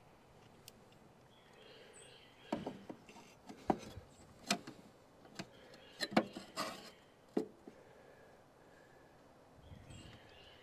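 A scattered run of sharp knocks and clicks lasting about five seconds, over faint outdoor chirping.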